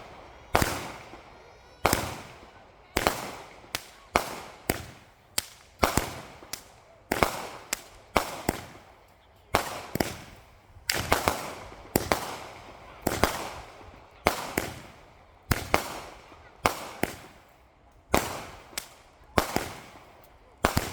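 Consumer aerial fireworks going off in a steady string of sharp bangs, about one a second, some coming in quick pairs, each followed by a short fading tail.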